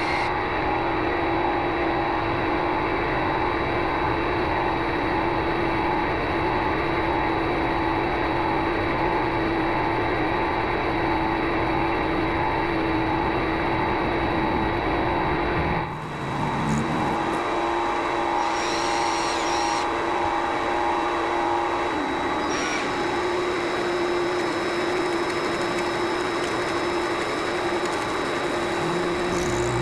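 Vevor MX400 mini lathe running steadily with a motor whine while cutting. The sound dips briefly about halfway through, then carries on, its whine a little higher for the rest of the time.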